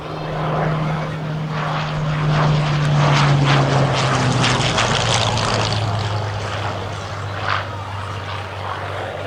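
Hawker Hurricane Mk.IV's Rolls-Royce Merlin V12 engine passing by in a flypast: it gets louder, then its pitch drops as it goes past and draws away.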